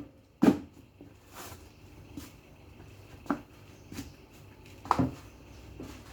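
A series of short, light knocks and clatters, about one a second, the loudest about half a second in and about five seconds in, as household things are handled and set down.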